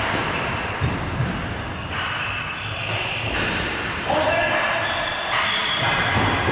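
Sounds of play in an indoor league game in a large, echoing hall: thuds and knocks from the ball and players, drawn-out squeaks at changing pitches, and voices.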